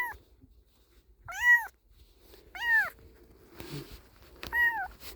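Very young kitten mewing repeatedly while being held to have the crusted discharge wiped from its eyes: short, high calls that rise and fall, about one a second, four in all.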